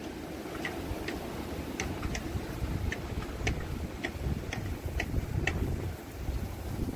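A series of short, high ticks or chirps at irregular intervals, roughly one or two a second, over the low rumble of strong gusting wind. The speaker calls this sound 'the singing girls'.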